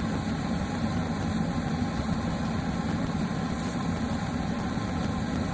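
Blacksmith's forge running with a steady low rumble, unbroken throughout.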